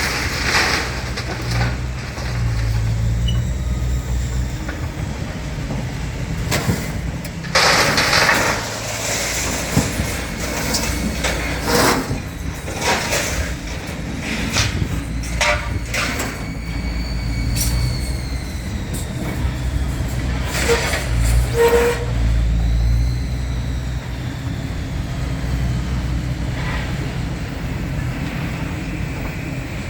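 A heavy vehicle's engine running steadily, with scattered knocks and a few high, gliding squeals over it.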